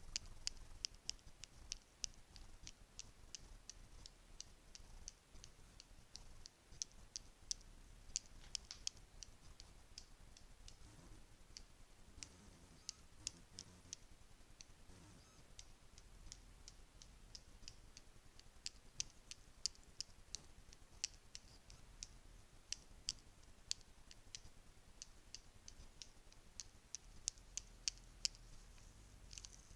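Bracelets clinking together: a run of soft, quick, irregular clicks, thinning out in the middle and coming thick again later.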